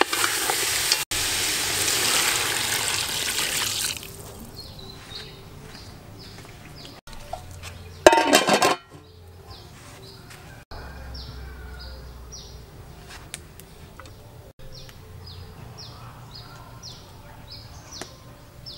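Pork pieces sizzling loudly in a hot aluminium pot as a wooden spatula stirs them; the frying cuts off after about four seconds. About eight seconds in, an aluminium pot lid clatters briefly. Then faint, quick high bird chirps repeat about once or twice a second.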